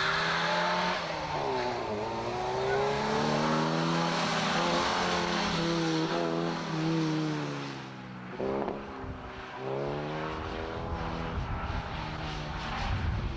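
1969 Saab Sonett's 1.5-litre Ford V4 engine revving hard under acceleration through an autocross run, its pitch climbing and falling again and again. It eases off about eight seconds in, gives a quick sharp blip of revs, then pulls again.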